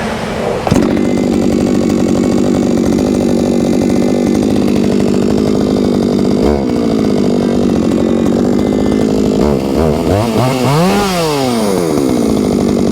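A two-stroke chainsaw is pull-started with its chain brake set and the saw clamped between the operator's legs. It catches about a second in and runs steadily at a fast idle. Near the end its engine speed rises once and falls back.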